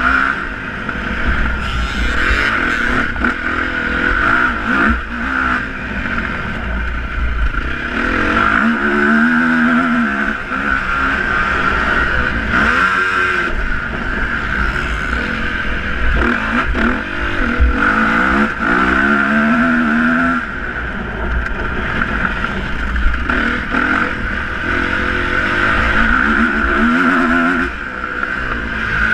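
Motocross dirt bike engines running hard, their pitch rising and falling again and again as the throttle opens and closes.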